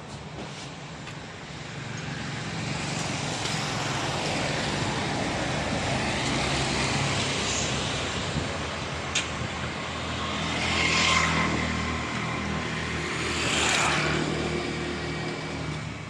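Motor vehicles passing on a road, over a steady engine hum; two louder pass-bys swell and fade about eleven and fourteen seconds in, with a single sharp click shortly before the first.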